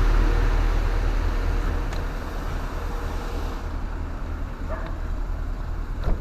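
An H-Thermo truck refrigeration unit running, with a steady low hum and the rush of its fans, which eases off about three seconds in. The fans reported as not working are in fact turning.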